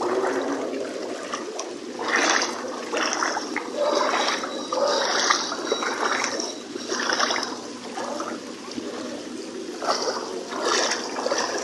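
Floodwater running and splashing, with uneven louder surges every second or so.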